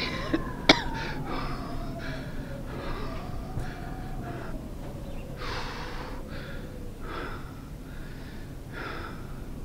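A cyclist's heavy breathing and gasps while pedalling hard into a strong headwind, over steady rumbling wind noise. A faint long tone rises briefly, then slides slowly down over several seconds, and there is a single sharp click early on.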